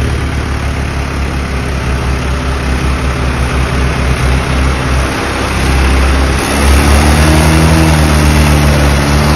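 Mahindra 575 DI XP Plus tractor's four-cylinder diesel engine running with a steady pulsing throb. About six and a half seconds in it gets louder and its pitch rises a little as the engine is opened up.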